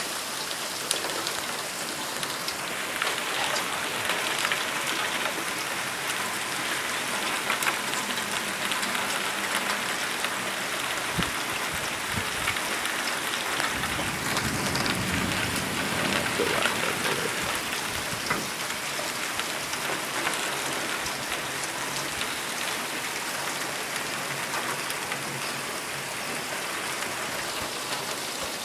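Heavy rain pouring down in a steady hiss, with sharp ticks of drops striking nearby surfaces.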